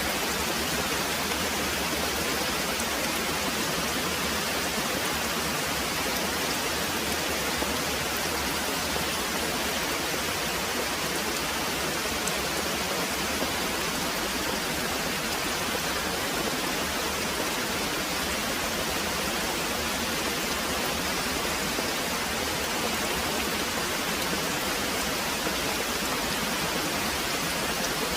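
Very heavy rain pouring steadily, an even hiss with no let-up and no thunder.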